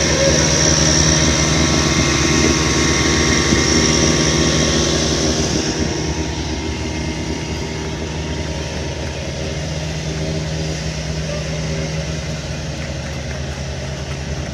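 A vehicle engine running steadily, with a high hiss over it that falls away about six seconds in.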